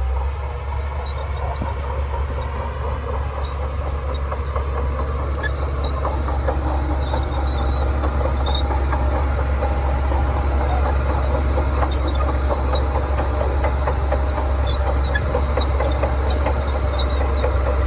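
Shantui crawler bulldozer's diesel engine running steadily under load, with its steel tracks clanking, growing slightly louder.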